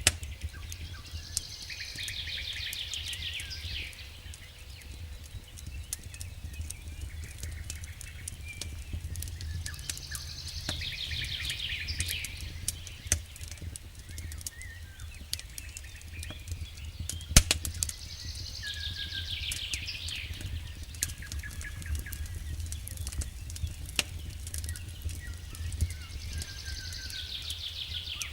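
Wood fire crackling in a fireplace, with scattered sharp pops (the strongest about halfway through) over a steady low rumble. A short bird song phrase, a trill with a few chirps, repeats about every eight or nine seconds, like a loop.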